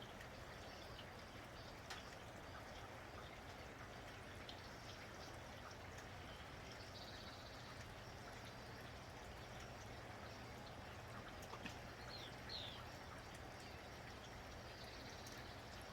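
Steady patter of light rain with scattered faint drips, and a few brief bird chirps about three-quarters of the way through.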